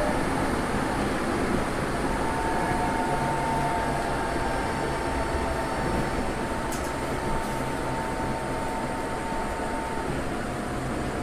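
Tokyo Metro 03 series armature-chopper train running, heard from inside the car: a steady rumble of wheels on rail, with a thin steady whine that sets in about two seconds in and dies away near the end.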